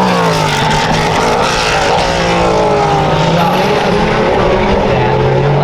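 Race cars going by at speed, several engines heard at once, their pitch sliding down and back up as they pass and shift.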